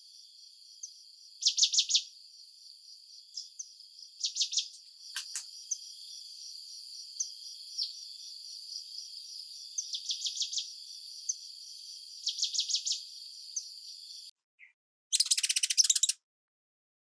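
Birds singing in short, rapid high trills every two or three seconds over a steady, high-pitched insect chorus. The ambience cuts off suddenly near the end, followed by one last trill and then silence.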